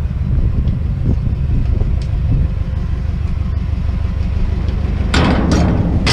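Truck engine running with a steady low rumble; about five seconds in, a louder rush of noise with a few sharp clicks and clatters comes in over it.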